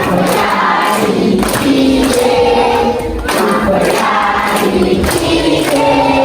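A group of people singing together in chorus, holding long notes.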